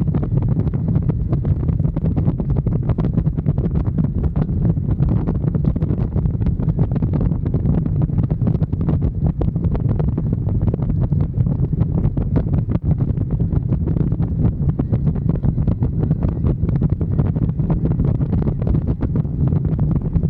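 Motorcycle under way at a steady speed: the engine's low, even running with wind rushing over the microphone.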